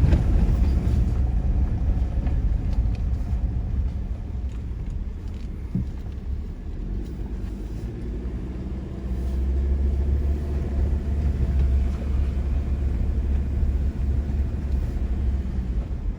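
Ford Ranger driving, a steady low rumble of engine and road noise that grows louder for a few seconds about nine seconds in.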